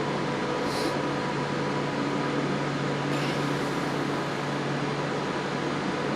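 Steady hum of a Class 390 Pendolino electric train standing at the platform, its cooling fans and electrical equipment running with a few constant tones over an even hiss.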